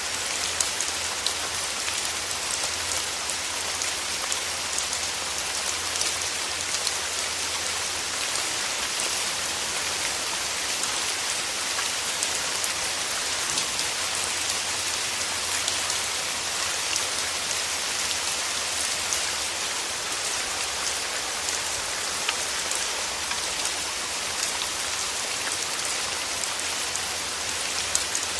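Steady rain falling: an even hiss with many small, quick drop ticks.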